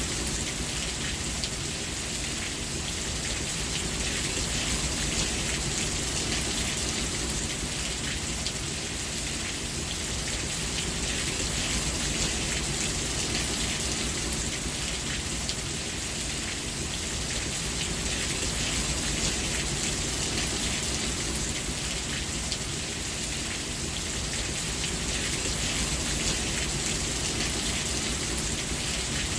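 Steady, even rainfall with dense patter of drops on a surface.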